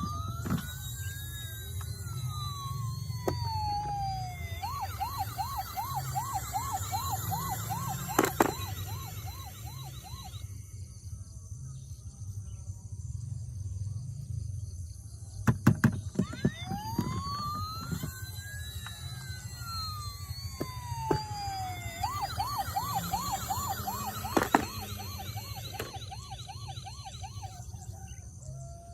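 Electronic siren of a toy emergency vehicle: a slow rising and falling wail followed by a fast warbling yelp of about two cycles a second, sounding twice with a quieter pause of about five seconds between. A few sharp clicks and a low rumble run underneath.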